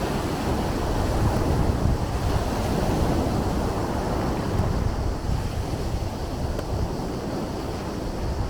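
Sea waves washing in a continuous deep rush that swells a little in the first few seconds and then eases slightly.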